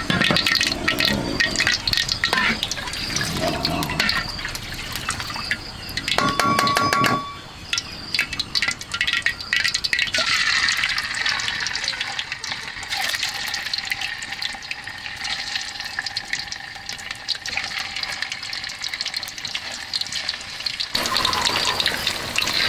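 Water sloshing and trickling, with many small clicks and knocks.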